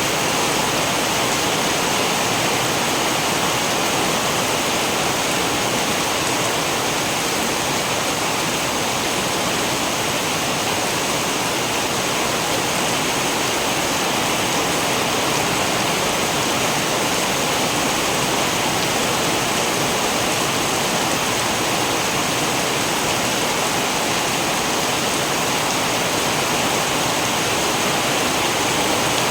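Steady heavy rain, an even rushing hiss without pauses or thunder.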